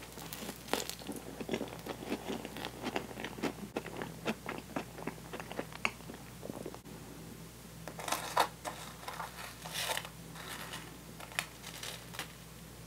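Close-up chewing of a crunchy Oreo cookie: a rapid run of crisp crunches, a short lull about seven seconds in, then a few louder crunches.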